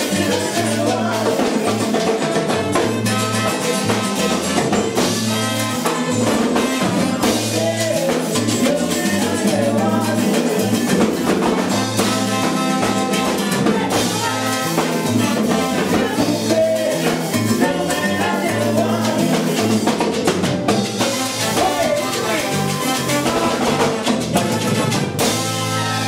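Live salsa band playing: a drum kit and Latin percussion over a bass line that moves in a repeating pattern, with some singing.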